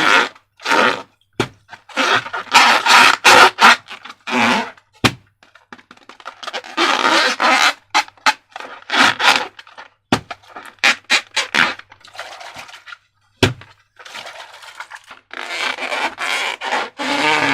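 Slime being squished and worked by hand: irregular wet squelching and crackling in short bursts, with a few sharp clicks in between.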